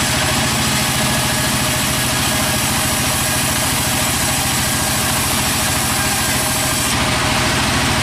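An engine running steadily at constant speed, with a rapid even firing pulse under a broad mechanical hiss.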